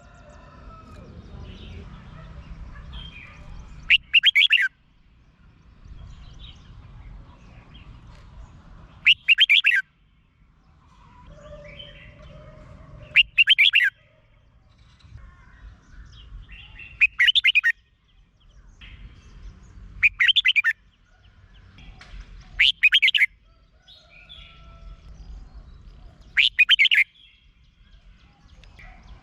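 Red-whiskered bulbul singing: seven short, loud, rapid warbled phrases, one every three to four seconds, with softer chirps in between.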